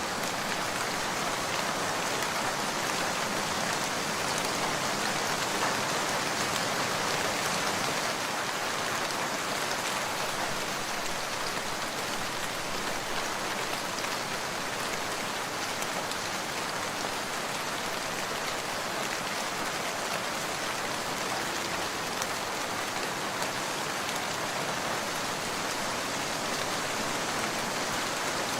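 Steady heavy rain falling on surfaces: a dense, even hiss of countless drops with no thunder.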